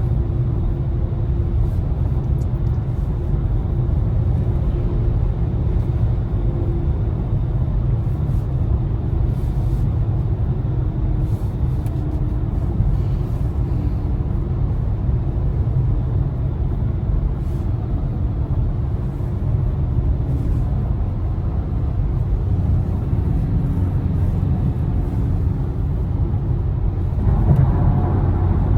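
Steady low rumble of road and tyre noise from a BMW i4 M50 electric car driving along a back road, with no engine note; it grows a little louder and fuller near the end.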